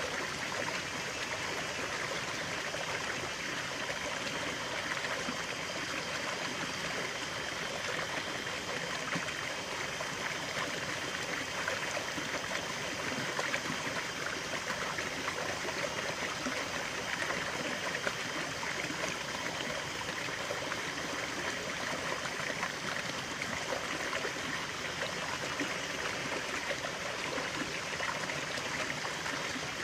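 Running water in a natural stream, a steady trickling and babbling flow.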